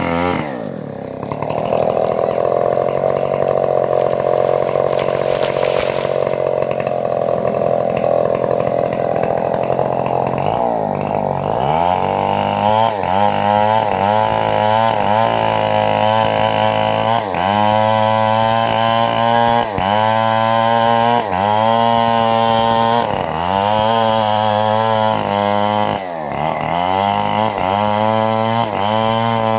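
Homemade engine-driven bandsaw mill running and sawing trembesi (rain tree) wood. After about ten seconds the engine note repeatedly sags and recovers as it works under the load of the cut.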